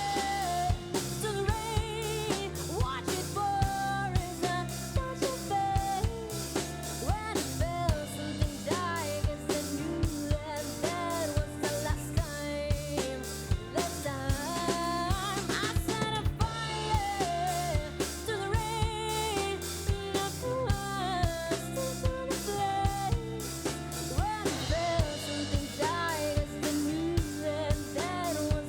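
Live band music: a drum kit with snare and bass drum keeps a steady beat under a wavering lead melody.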